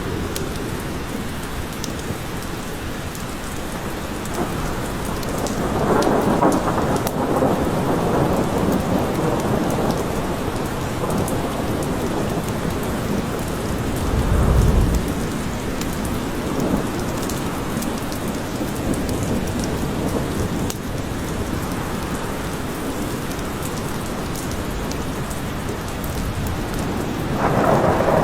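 Steady rain falling in a forest, with thunder rumbling: a swell about six seconds in, a deep low rumble around halfway, and another swell near the end.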